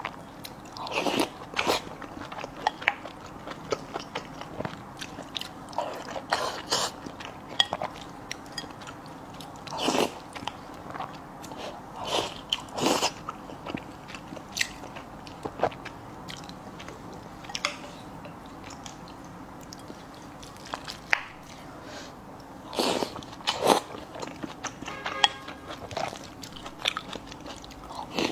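A person eating close to the microphone: crunchy bites and chewing in irregular clusters, with the loudest bursts every few seconds.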